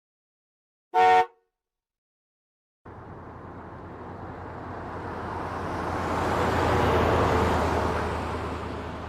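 One short car horn honk about a second in. After a pause, the rising and falling rush of a vehicle driving past, loudest a few seconds later and fading toward the end.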